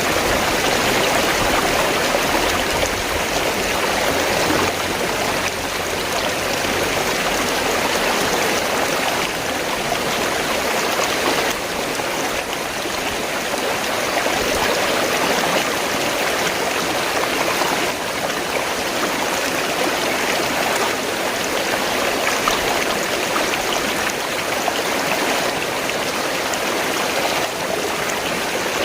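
River water flowing, a steady, even rush that holds at one level throughout.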